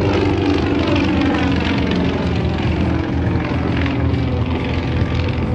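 A Yak-50's nine-cylinder air-cooled Vedeneyev M-14 radial engine and propeller running hard in a dive. The engine note falls in pitch over the first couple of seconds, then holds steady.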